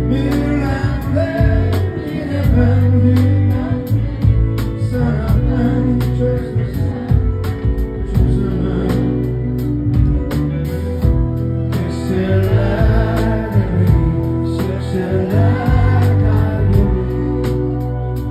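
Live band playing a song, with a lead voice singing over a steady drum beat, bass and guitar.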